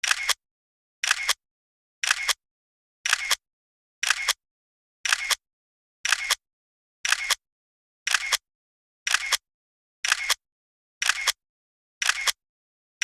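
Camera shutter clicking over and over, about once a second, each release a short double click, with silence between.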